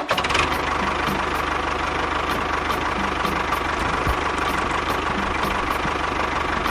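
A small engine running steadily at an even speed, with a faint regular ticking.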